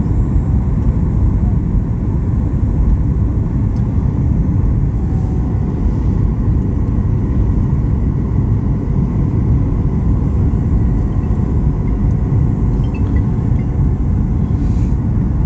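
Steady low rumble of a vehicle in motion, even in level with no breaks.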